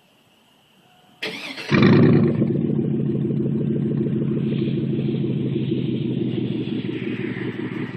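2002 Chevrolet Z71's 5.3-litre V8 with true-dual 2.25-inch straight pipes (factory catalytic converters kept) is cranked about a second in, catches with a loud flare, then settles into a steady idle.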